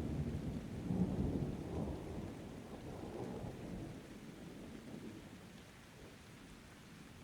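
Thunder rumbling, swelling twice in the first couple of seconds, then dying away over several seconds, with rain falling underneath.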